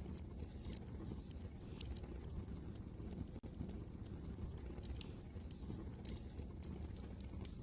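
Wood fire crackling in a fireplace: irregular sharp pops and snaps over a low, steady rumble of wind. There is a split-second dropout about halfway through.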